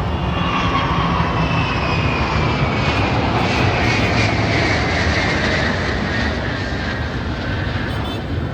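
Military aircraft flying past at an air show: a steady engine noise with a whine that slowly falls in pitch as it passes.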